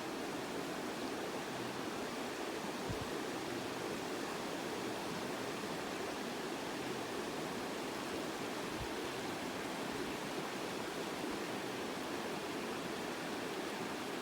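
Steady rush of flowing water from a river or stream, unbroken and even, with two faint low bumps.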